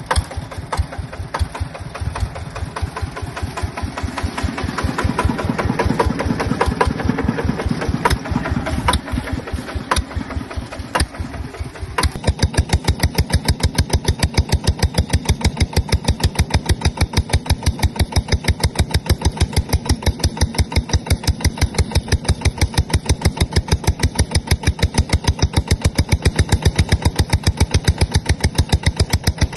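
Yanmar TF150 single-cylinder diesel engine on a two-wheel tractor running unevenly with a few sharp metal clanks. About twelve seconds in it settles into a steady, even chug of rapid exhaust beats.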